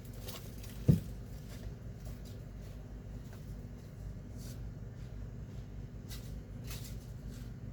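A single short thump about a second in, over a steady low hum and a few faint ticks.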